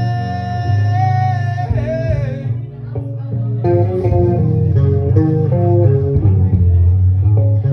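Looped electric bass guitar playing an instrumental passage: a long held high note fades out about two seconds in, then plucked notes ring over a steady low bass line.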